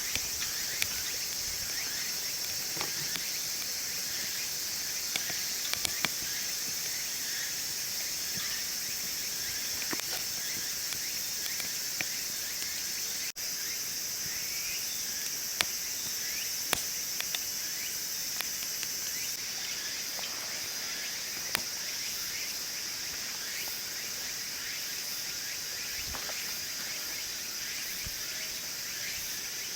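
A steady high-pitched chorus of late-summer insects such as crickets, with a wood fire crackling in a wood stove: scattered sharp pops at irregular intervals.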